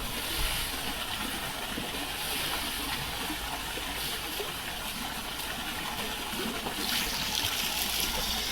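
Water gushing and splashing, a steady rush that grows louder near the end.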